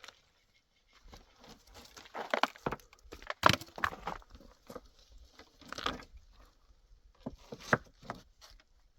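Irregular knocks and clatter with rustling between them, the sharpest knocks about halfway through and again near the end.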